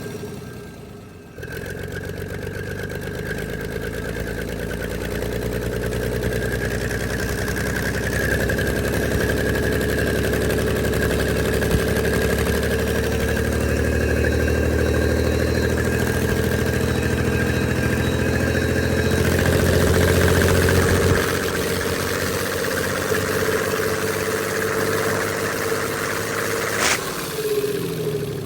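Freshly rebuilt Komatsu D155 six-cylinder diesel engine starting about a second in and running, its pitch climbing slowly for some twenty seconds before easing back to a lower steady run. Near the end a sharp click, then the engine winds down with falling pitch.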